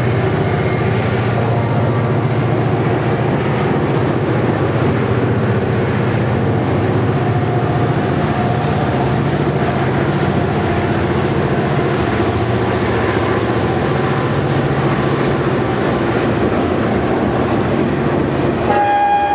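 EMD diesel freight locomotives running with a steady engine drone and rolling rail noise; a locomotive air horn chord starts just at the end.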